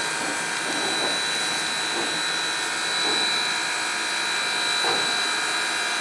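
Steady hiss and hum in the cab of Southern Railway 630, an Alco 2-8-0 steam locomotive, with several constant high whistling tones running through it.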